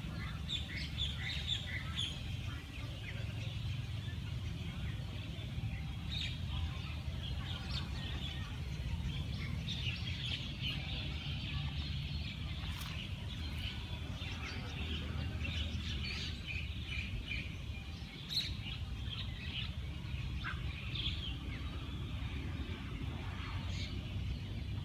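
Birds chirping and calling again and again, short scattered chirps, over a steady low rumble.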